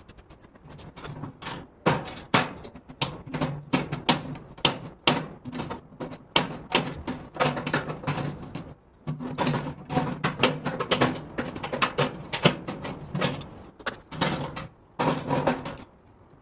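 Sheet-metal work on an 18-litre steel can: irregular sharp clicks and knocks, several a second, with a low hum underneath in the second half.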